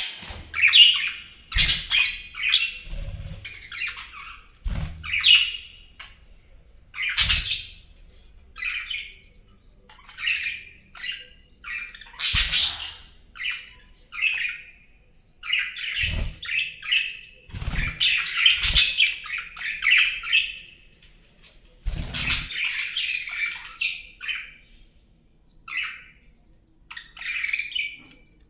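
Budgerigars chirping and squawking in short, irregular calls that crowd together into busy chatter toward the middle, with several sharp knocks among the calls.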